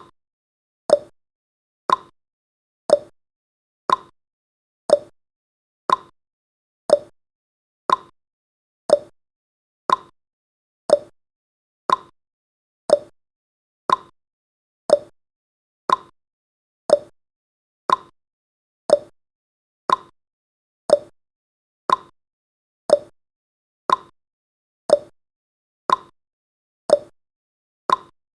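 Countdown timer's clock-tick sound effect: short sharp ticks exactly once a second, alternating between a higher and a lower pitch like a tick-tock, each dying away quickly.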